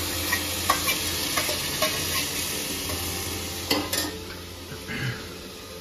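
Onions and chopped greens sizzling in a stainless steel pressure cooker while a steel ladle stirs them, with a few scrapes and clinks of the ladle against the pot.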